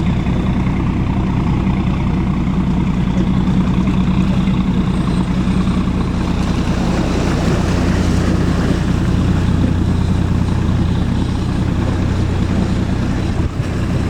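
A heavy engine running steadily, a low, even drone that holds at one pitch.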